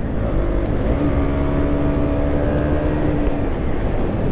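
KTM Duke 200's single-cylinder four-stroke engine running at a steady note while the bike is ridden at speed, under a heavy rush of wind and road noise. The engine note drops away about three and a half seconds in as the throttle is eased.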